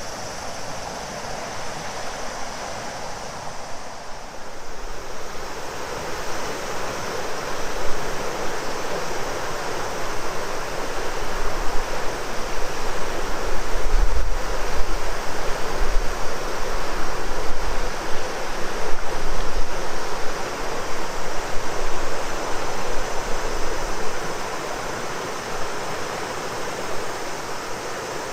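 Shimanto River flowing, a steady rush of water, with a steady high drone of summer cicadas above it. Low rumbles of wind on the microphone come and go in the middle.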